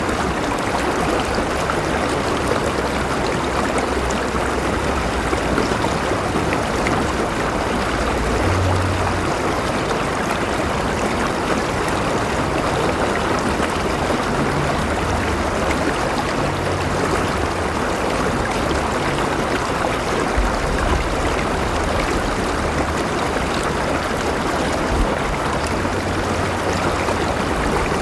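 A flowing river rushing and gurgling steadily, an even, unbroken wash of water noise with a low rumble underneath.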